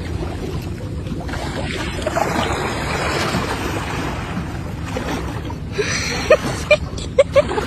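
Boat motor running steadily with water noise, and a few short sharp sounds near the end.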